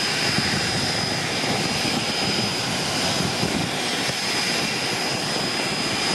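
Jet airliner engines running steadily nearby: an even rush of noise with a high, steady whine over it.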